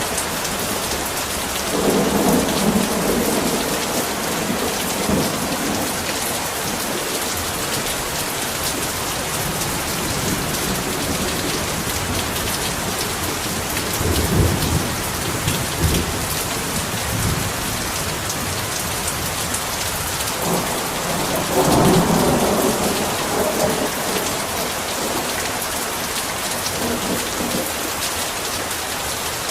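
Heavy rain pouring steadily, with thunder rumbling three times: a few seconds in, about halfway through, and again about two-thirds of the way through.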